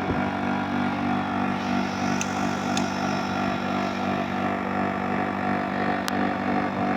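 Window air conditioner running with its fan and newly replaced compressor on, a steady hum. A few faint clicks sound over it.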